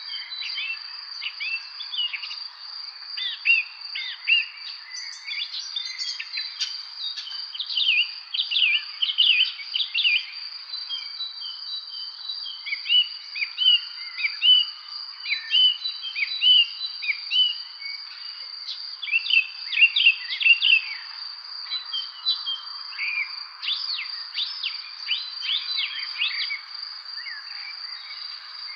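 Songbirds chirping and singing in quick, short repeated phrases, with busier stretches of song, over a steady high-pitched insect trill that runs without a break.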